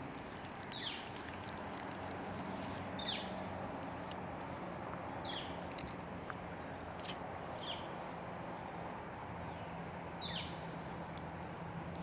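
A bird chirping in short, downward-sliding calls about every two to three seconds, over a faint steady high insect trill and a low hum.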